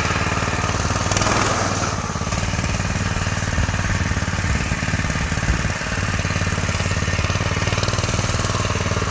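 Predator 212 single-cylinder four-stroke engine on a go-kart running under throttle, with a louder swell about a second in, then a steady drone.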